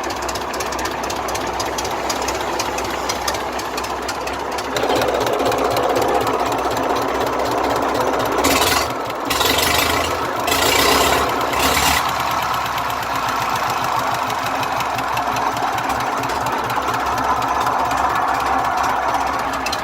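Old engine running with a fast, even knocking beat. It gets louder about five seconds in, and two loud bursts of hissing cut in between about eight and twelve seconds.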